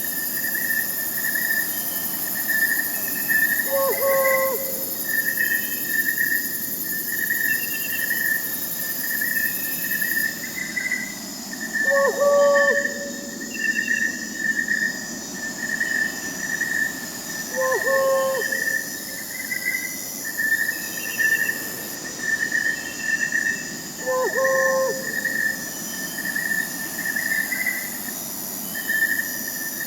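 Night forest ambience: crickets chirping in a steady pulsing trill over a high insect hiss, with a short low owl hoot four times, about every six seconds.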